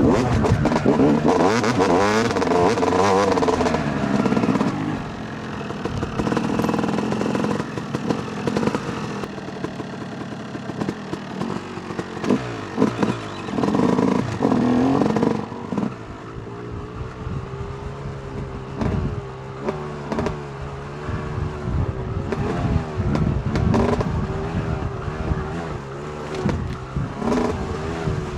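2008 Yamaha YZ250 two-stroke dirt bike engine revving up and down hard through the gears. About halfway through it drops to low revs with short throttle blips, with some clattering from the bike.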